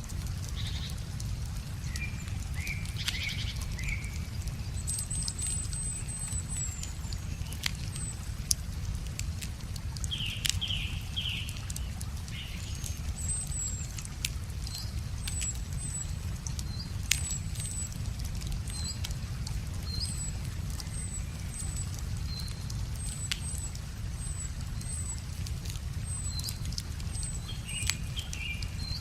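A wood fire crackling with scattered sharp pops, over a steady low rush of flowing river water. Birds sing through it: thin, high, repeated short notes and a few brief chirping phrases.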